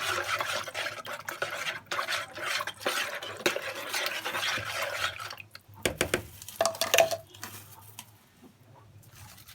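A spoon stirring a wet spice-and-milk marinade in a bowl, scraping and clinking against the sides for about five seconds. Then a few sharp clinks, one ringing briefly, before it goes quieter.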